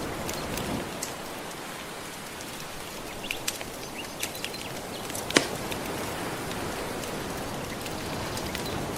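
Gentle ocean waves washing steadily with a wood fire crackling over them, its scattered pops and snaps including one sharp pop about halfway through.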